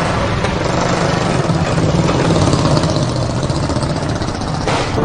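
1939 Norton 500 single-cylinder motorcycle engine running steadily.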